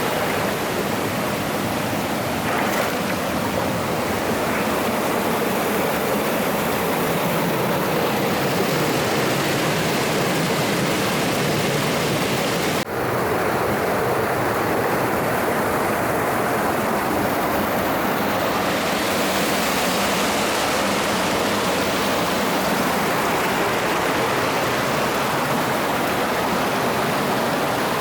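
Steady rushing water of a mountain stream, with a momentary break in the sound about halfway through.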